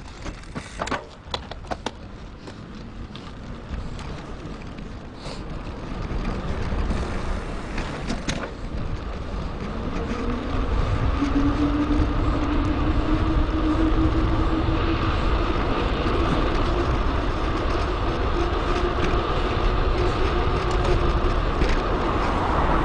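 Wind and road noise from a bicycle-mounted action camera, played at 2.5x speed. A few sharp clicks come in the first seconds. The noise then builds as the ride picks up and settles into a steady rush with a continuous hum over the second half.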